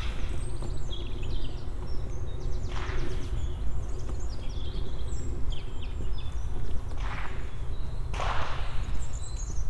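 Small songbirds chirping and trilling, with a few crunching footsteps, over a steady low rumble.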